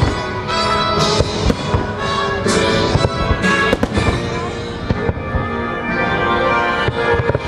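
Fireworks shells bursting in quick succession, with a series of sharp bangs and crackles over the show's orchestral music soundtrack.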